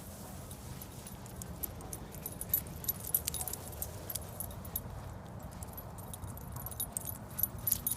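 Dog collar tags and leash clips jingling in quick, irregular clinks as the dogs move, over a steady low rumble.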